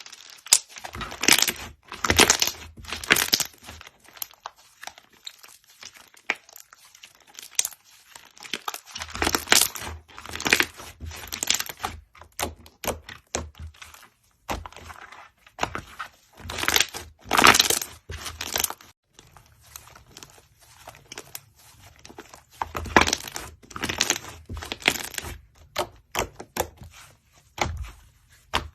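Slime being squeezed and pressed by hand, crackling and popping in irregular bursts with short pauses between them.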